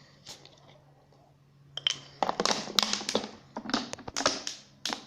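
An animal crunching dry cat kibble: a quick, irregular run of sharp crunches that starts about two seconds in.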